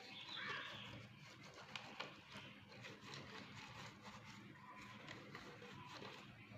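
Faint, scattered light clicks and taps over quiet room tone, with a brief soft hiss about half a second in.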